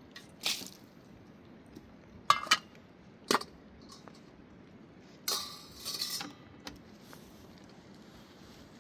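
Dishes and utensils clinking: a few sharp knocks with a brief ring about two to three seconds in, then a second or so of rattling and scraping.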